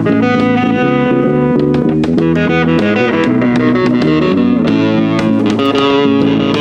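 Guitar music with bass, played steadily and loud, held notes changing pitch every second or so under picked notes.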